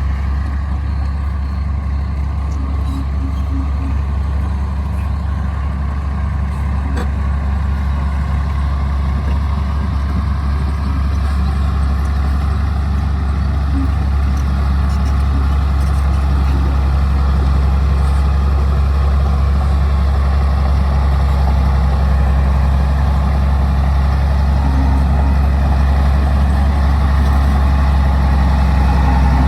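Bulldozer's diesel engine running steadily: a low, continuous drone that grows slightly louder over the half-minute.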